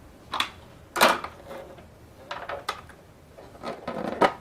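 Plastic toy helicopter being handled, giving a few sharp clicks and knocks, the loudest about a second in and another just before the end.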